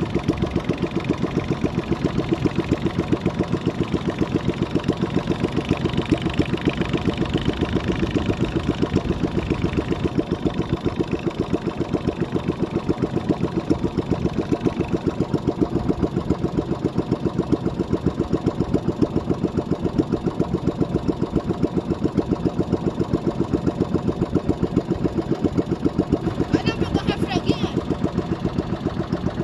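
Small boat's motor running steadily with an even, rapid pulsing beat.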